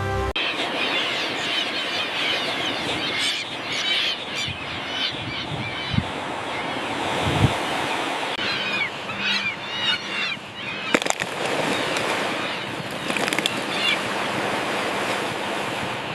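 Dense din of a common tern nesting colony: many terns calling at once in short, harsh notes over a steady rushing noise, with a few sharp knocks.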